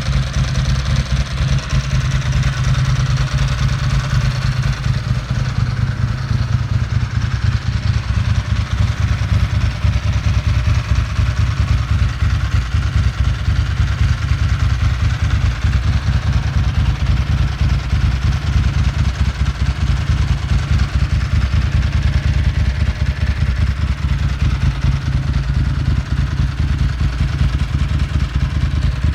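2002 Ducati Monster S4's 916 cc L-twin idling steadily through Spark aftermarket mufflers, a fast even low pulse of exhaust beats.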